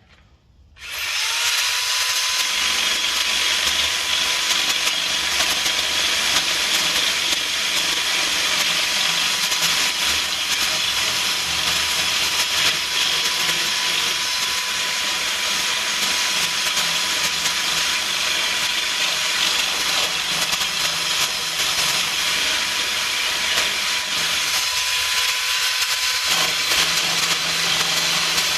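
Handheld power tool spinning up about a second in, then running steadily with a whine, working the truck's body panels.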